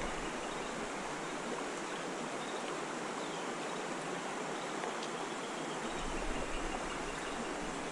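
Creek water flowing and splashing: a steady, even rush.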